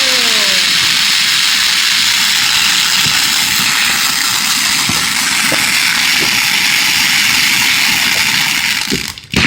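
Fireworks grand finale: a continuous, dense hissing crackle from many shells bursting at once, with a short falling whistle at the start. It stops suddenly near the end.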